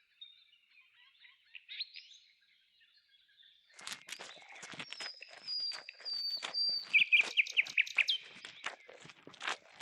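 Small birds chirping, faint at first, with a held whistle and a quick run of chirps in the second half. From about four seconds in, a rapid series of sharp clicks and knocks joins them.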